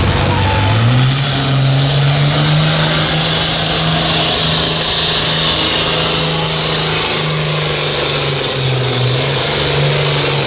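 Pulling tractor's engine running at full throttle: about a second in its pitch climbs, then holds high and steady, dipping briefly a couple of times near the end.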